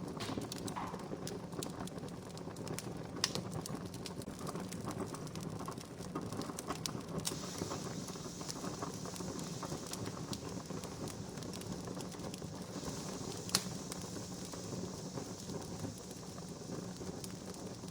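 Wood campfire crackling steadily with many small pops and two sharper pops, about three seconds in and near the end. A high hiss joins the crackle about seven seconds in.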